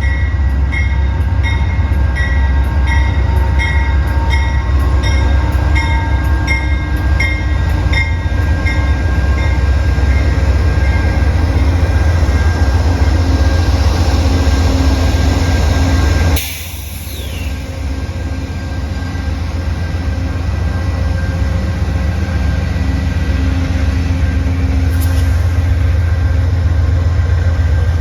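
Train rumbling heavily and steadily, with a repeating ding about one and a half times a second for the first eight seconds or so. About halfway through the sound drops suddenly, then the rumble builds back.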